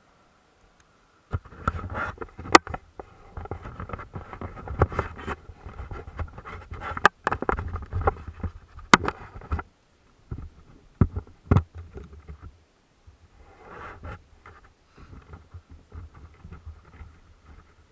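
Mountain bike riding over rough dirt, with tyre rumble, rattling and sharp knocks from the bumps. It starts suddenly a little over a second in, and after about ten seconds it thins to scattered knocks over a softer rumble.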